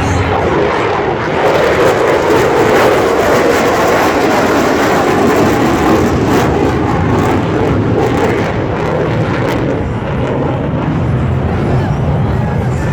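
Loud jet noise of an F-22 Raptor fighter in flight, a steady rushing roar that swells about a second and a half in and eases slightly toward the end.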